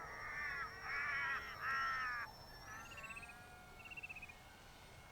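A crow cawing three times in quick succession in the first two seconds, the loudest sound here. Behind it is the faint high whine of the RC glider's electric motor, which rises in pitch about three seconds in. Short fast trills of a small bird come a little later.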